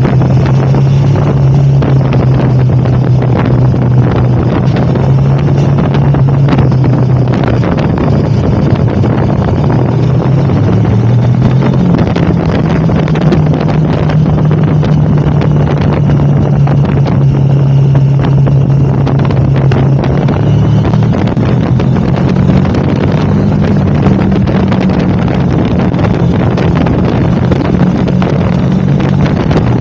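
KTM 1290 Super Adventure's V-twin engine running at steady road speed, with heavy wind noise on the microphone. The engine note steps up in pitch about a third of the way in and again about two-thirds through.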